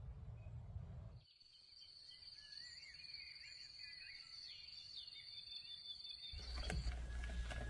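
Birds chirping over a steady high insect drone. Before and after, there is a low rumble that cuts in and out abruptly, with clicks after it returns near the end.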